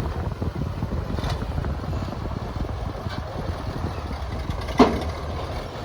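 Dump truck engine running with a steady low rumble, and a single sharp clank about five seconds in.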